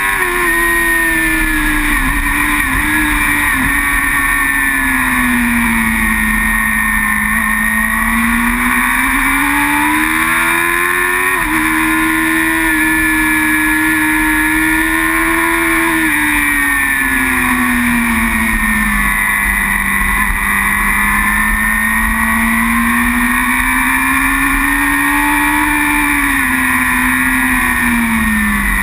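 Racing superbike engine at full race pace, its pitch climbing under acceleration and sinking as it slows for corners, with a sudden drop about a third of the way in at a gear change. Steady wind and road rush runs beneath it.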